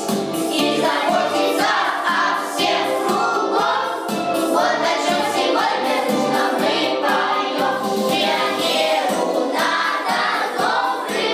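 A choir singing a song over instrumental backing.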